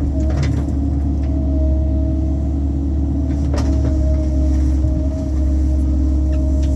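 Excavator's diesel engine running steadily at working speed as it digs a trench, with a few short sharp knocks, the clearest about three and a half seconds in.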